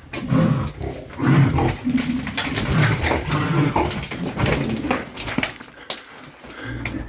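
An animal calling repeatedly in low, pitched bursts, with scattered sharp clicks among them.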